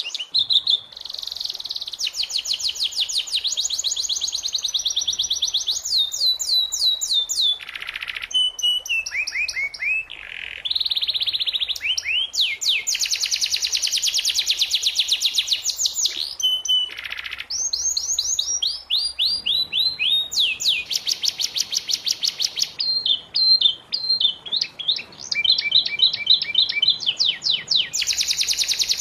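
Domestic canary singing a long, varied song of fast trills and rapid repeated chirps, with runs of falling whistled notes around a third of the way in and again past the middle.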